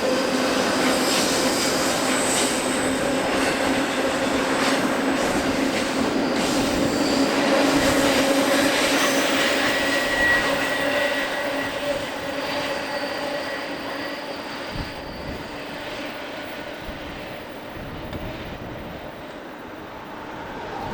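Freight train passing on the rails, with wheels and cars running steadily. It is loudest a little before the middle and fades away through the second half. A brief high wheel squeal sounds about halfway through.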